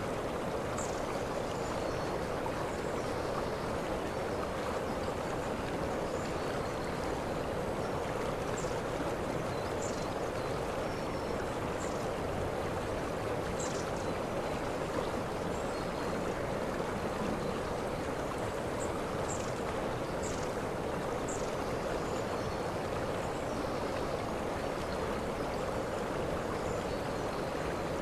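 Waterfall: water falling and rushing in a steady, unbroken rush, with brief high-pitched sounds every second or two.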